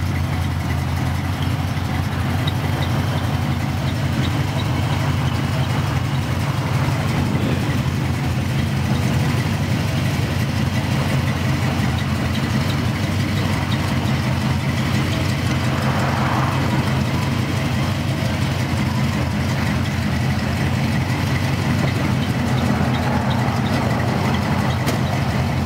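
1985 Chevrolet Monte Carlo SS's V8 engine idling steadily.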